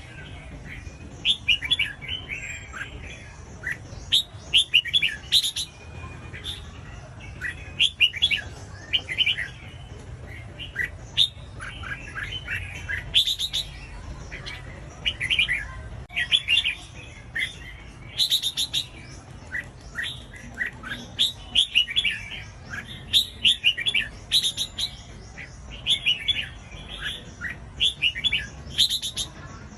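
Red-whiskered bulbul singing: short, quick chirping phrases repeated every second or two, over a faint steady low hum.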